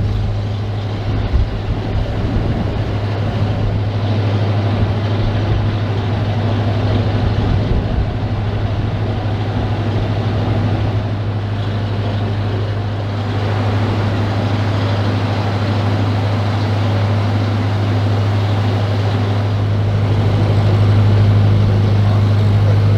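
Narrowboat diesel engine running steadily under way, with strong gusty wind buffeting the microphone.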